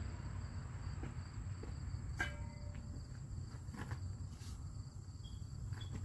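Insects trilling steadily, a high pulsing chirp over low background rumble. About two seconds in there is a sharp clink with a brief ring, followed by a few fainter knocks.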